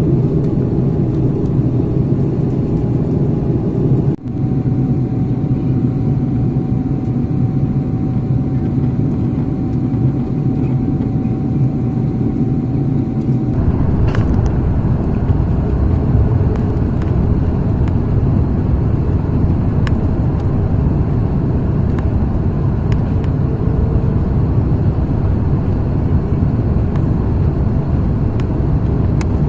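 Airbus A330-300 cabin noise: a steady, deep rumble of engines and airflow. It changes abruptly about 4 seconds in and again about 13 seconds in, where the low rumble grows stronger.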